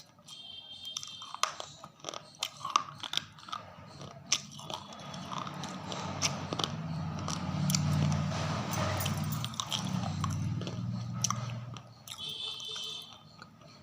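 Close-up crunching and chewing of hard, dry, crumbly pieces: sharp bites and crunches at first, then steadier, louder chewing through the middle.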